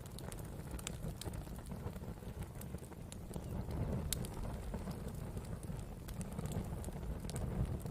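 Wood campfire burning: scattered crackles and pops of burning wood over a steady low rumble, with one sharper pop about halfway through.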